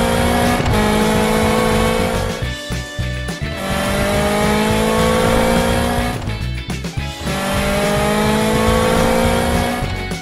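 Cartoon race-car engine sound effect: a slowly rising rev lasting about two and a half seconds, heard three times with short breaks between, over background music.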